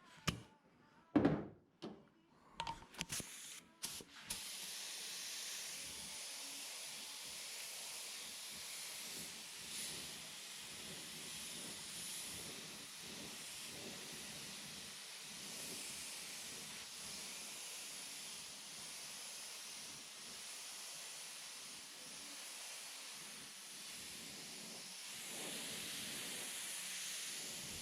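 A few knocks and clicks, then from about four seconds in a steady hiss of paint being sprayed, a little louder near the end.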